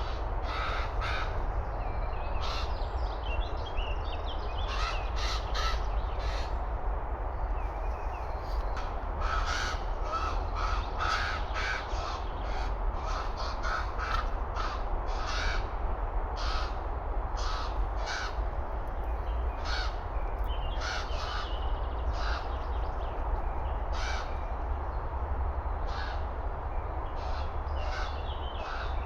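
Common ravens calling over and over in short, separate calls. A steady low rumble runs underneath.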